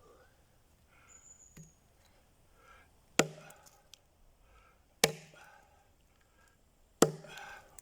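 Axe chopping into a log: three heavy blows about two seconds apart.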